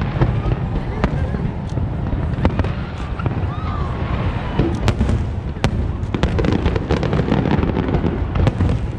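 Aerial fireworks going off in quick succession: a continuous rumble of booms with many sharp crackling pops, which grow denser in the second half.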